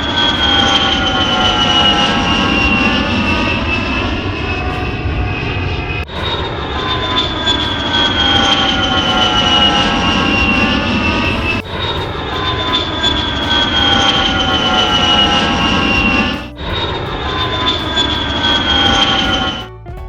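Jet airplane engine sound effect: a loud roar under a high turbine whine that slides slowly downward in pitch. The same stretch restarts with an abrupt cut every five to six seconds, and once after about three, as a looped edit.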